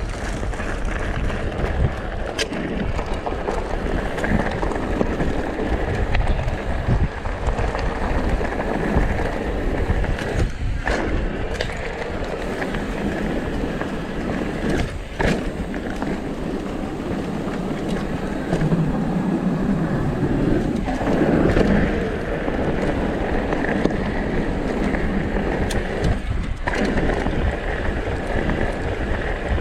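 Downhill mountain bike ridden fast over rough trail: tyres rolling and the bike rattling over dirt and rocks, with irregular sharp knocks from bumps and landings, under wind noise on the microphone.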